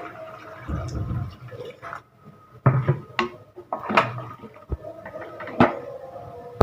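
Water being poured into a pressure cooker holding chicken, followed by several sharp clinks and knocks of metal vessels.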